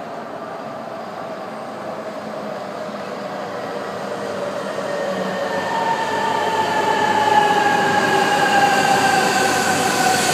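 E3 series Shinkansen train pulling into a station platform, its running noise growing steadily louder as it approaches. From about halfway in, a whine rises above the noise and falls slowly in pitch as the train slows.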